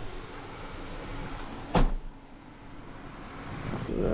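A single sharp thump, like a door or lid banging shut, about two seconds in, over a steady low background rumble.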